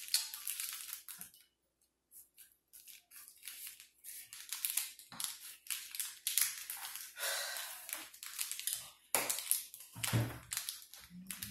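Close-up eating sounds: irregular crackly crunches and chewing of crunchy food such as chips or pickles, heard right at the microphone.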